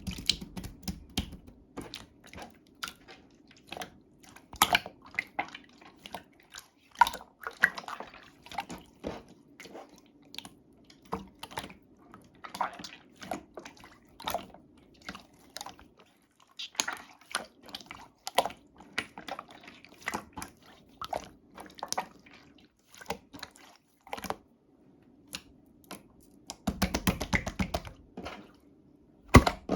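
Clear slime being squeezed and pressed by hand, making irregular wet clicks and pops, with a denser run of crackling clicks near the end.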